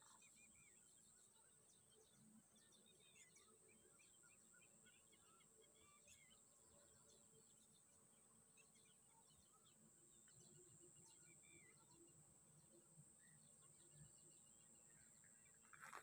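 Faint outdoor quiet with scattered small bird chirps and a steady high-pitched whine throughout; a brief louder sound near the end.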